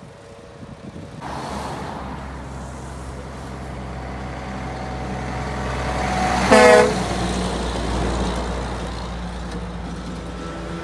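Heavy diesel truck engine starting up about a second in and growing louder as the truck pulls past. A single short horn blast about six and a half seconds in is the loudest moment, and the engine runs on steadily after it.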